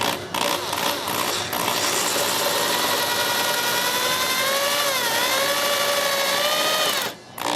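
Electric drill boring out wood: a few short spurts, then the motor runs steadily with a slowly rising whine, dips briefly under load about five seconds in, and stops abruptly near the end.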